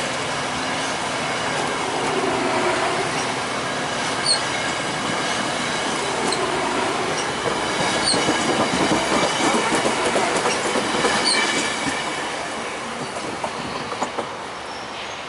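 A train rolling past on the tracks: steady wheel-and-rail noise with brief high wheel squeals about every three to four seconds. It is loudest in the middle and fades over the last few seconds.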